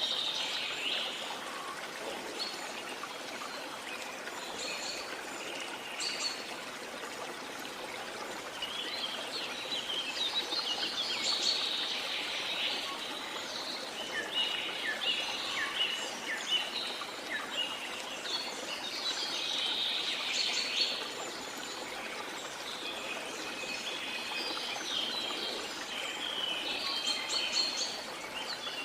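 Birds chirping and singing in quick repeated phrases over a steady rush of falling or flowing water.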